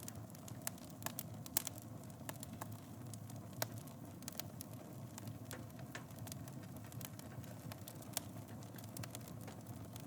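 Wood fire burning in a fireplace: a steady low rush of flames with irregular sharp crackles and pops, a few louder snaps among them.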